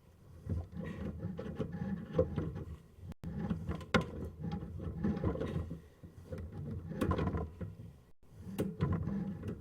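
Plumbing inspection camera's push cable being fed down a drain line, making an irregular rattling and scraping with sharp clicks and knocks.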